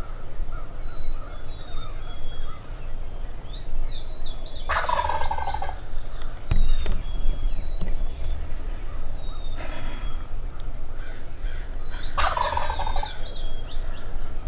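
Wild turkey tom gobbling: two loud gobbles about five seconds in and near the end, with a fainter one in between. Small songbirds chirp high over the gobbles.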